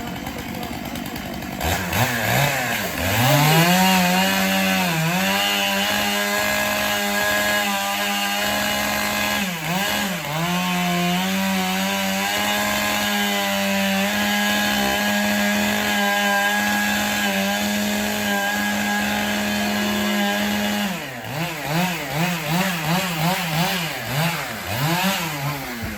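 Gas chainsaw revved up about two seconds in and held at high speed, its pitch dipping briefly a couple of times. In the last few seconds it is blipped on and off the throttle in quick pulses.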